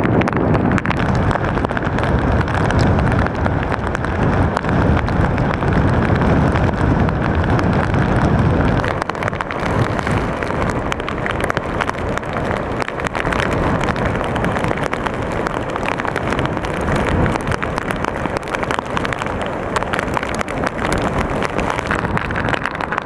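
Hurricane wind gusting against the microphone, a loud continuous rush with heavy low buffeting that eases about nine seconds in.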